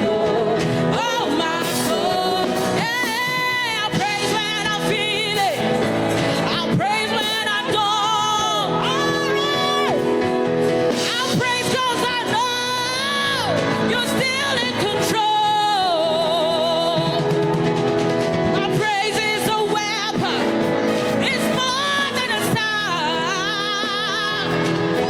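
Live gospel worship music: a singer's wordless vocal runs, sustained and wavering with heavy vibrato, over a full band, with a few shouts.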